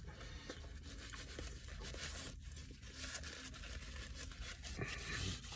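Faint rustling and scraping handling noises, over a low steady hum in a closed car cabin.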